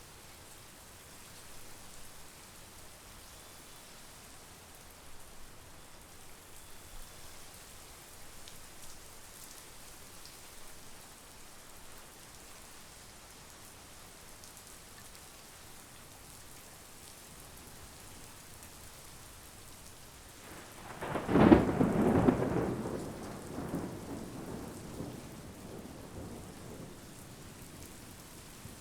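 Steady monsoon rain, with a single clap of thunder about three quarters of the way through that rumbles away over several seconds.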